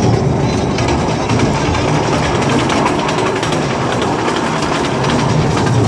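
Open-sided passenger carriage of a small train rolling along its track, heard from on board: a steady rumble with frequent irregular wheel clicks and rattles.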